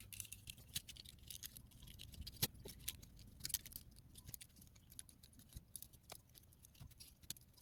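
Faint, irregular clicks and light taps of small plastic parts being moved and snapped into place as a letter-U transforming toy is unfolded into a bird.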